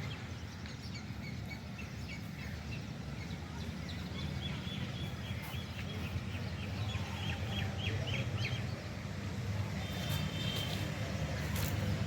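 Small birds chirping and twittering, with a quick trill of repeated notes partway through and a short whistled note near the end, over a steady low rumble of outdoor background noise.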